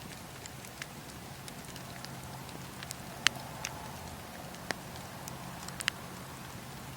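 Wood fire crackling in a fireplace, with scattered sharp pops over a steady low hum; the loudest pop comes a little past halfway, with others near the end.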